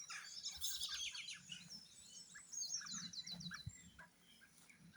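Dawn chorus: several songbirds singing together, faint, with overlapping high chirps and a fast run of quick repeated notes about two and a half seconds in.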